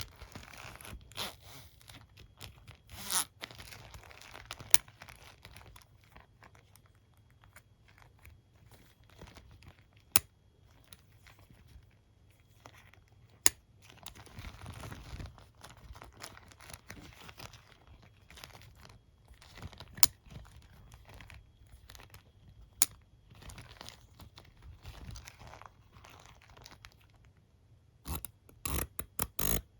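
Close-miked comb and hairbrush being handled: soft scratchy rubbing across the bristles and teeth, punctuated by scattered sharp taps and clicks, with a quick run of clicks near the end.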